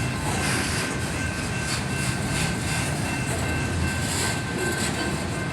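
Slow-moving train's railcars rolling past: a steady rumble with faint, irregular clicks of wheels.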